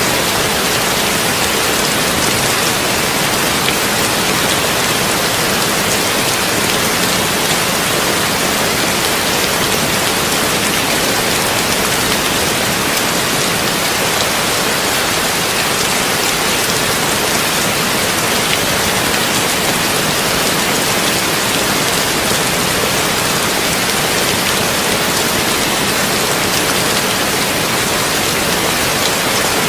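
Heavy rain falling on a tin roof, a steady, even hiss.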